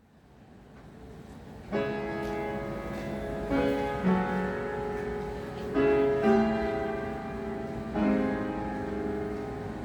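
Acoustic street piano being played: slow, sustained chords, a new one struck about every two seconds, coming in after a second or two of background noise.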